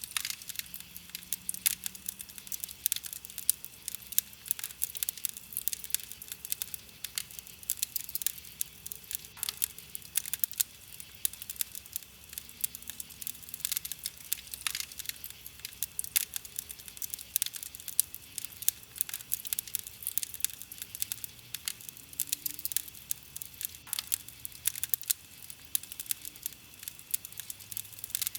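Wood campfire burning, with a dense, irregular run of small crackles and pops from the burning wood, a few sharper than the rest.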